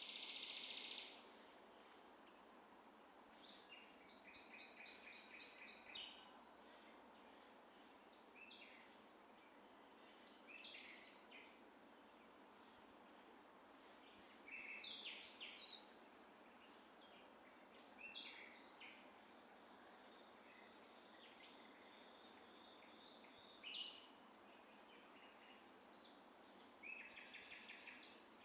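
Songbirds singing faintly in short, scattered phrases, including trills of rapidly repeated notes near the start and again near the end, over a steady background hiss of outdoor noise.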